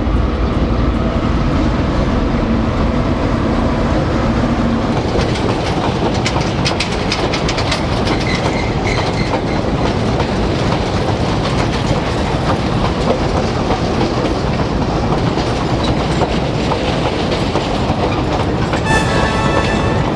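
Narrow-gauge sugarcane train rolling past with a steady loud rumble, its wheels clattering over the rail joints.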